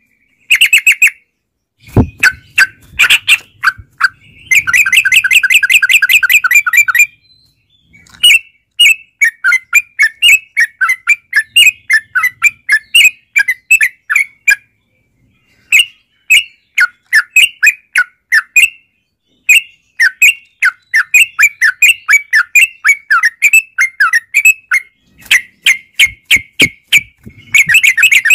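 Yellow-vented bulbul (trucukan) singing loud, rapid bubbly chattering phrases, in long runs broken by short pauses: the continuous 'ropel' song used as a lure to get a caged bird to answer.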